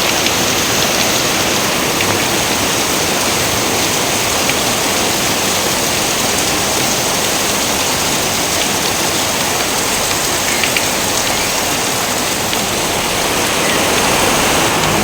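Steady rain: a dense, even hiss of rainfall with a few faint drop ticks.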